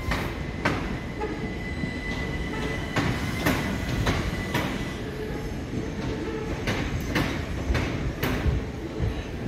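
Electric multiple-unit passenger train moving slowly through the station, its wheels clicking irregularly over rail joints and pointwork. A thin, steady high squeal runs for about three seconds near the start.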